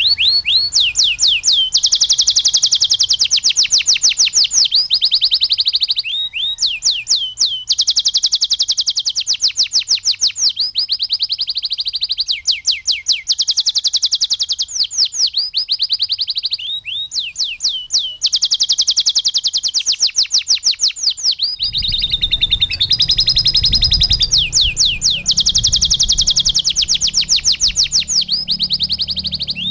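Domestic canary singing loudly in long rolling trills of fast repeated notes, each phrase changing to a new note type after a second or two, with brief pauses between runs. A low rumble joins about two-thirds of the way through.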